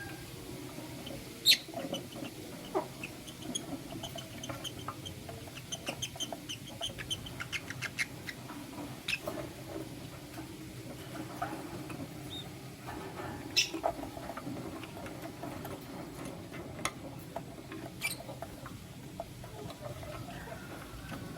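Lovebirds, a lutino and its mate, giving short high chirps and squeaks, scattered among sharp clicks and taps. The loudest clicks come about a second and a half in and about thirteen seconds in.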